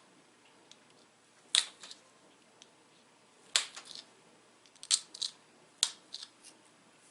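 Pressure flaking a small dacite point: about six sharp snaps as flakes pop off the edge under the pressure flaker, the first about a second and a half in, the rest bunched in the second half. The edge platforms have been ground beforehand, which helps the flakes come off.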